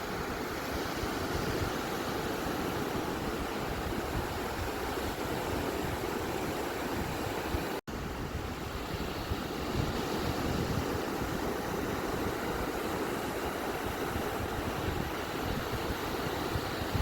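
Ocean surf washing on a beach as a steady, even rush of noise with no distinct breaking swells. It cuts out for an instant about halfway through.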